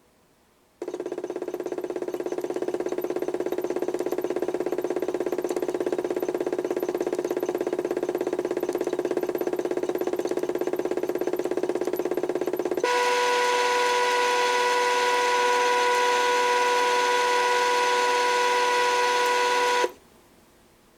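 HUSTOO 775 DC motor in a modified toy washing machine, under PWM speed control, running steadily. About twelve seconds in it switches abruptly to a louder, whining speed, then cuts off suddenly near the end.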